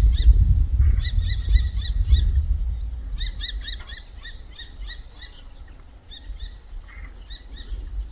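Songbirds chirping in quick runs of short, high notes, with a low rumble loudest for the first three seconds and then fading.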